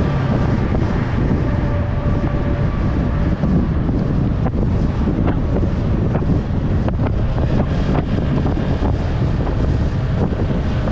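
Heavy wind rush on a GoPro's microphone while riding a Yamaha R3 motorcycle, with the bike's parallel-twin engine running beneath it. A few short knocks come in the second half.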